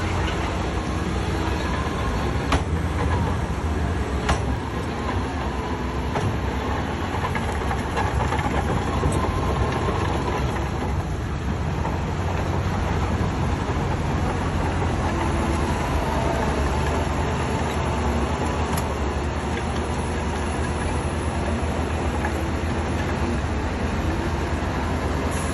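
Heavy diesel earthmoving machinery running steadily, with clanking and two sharp knocks a couple of seconds apart early on.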